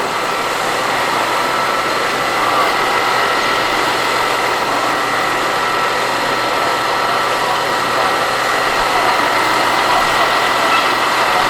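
A vehicle engine running steadily, with an even rumble and a steady high whine.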